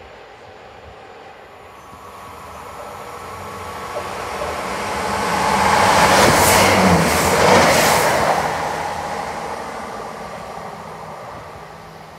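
Class 166 diesel multiple unit passing through the station: the noise of its engines and wheels builds over several seconds, is loudest about six to eight seconds in, and then fades as it runs away.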